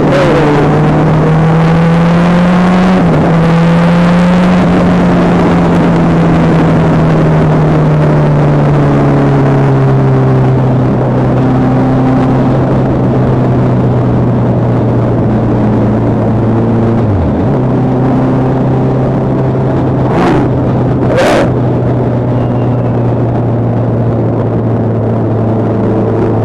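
Motorcycle engine running at a steady cruise under a haze of wind and road noise, its pitch rising a little in the first seconds and then slowly easing lower. Two sharp clicks about twenty seconds in.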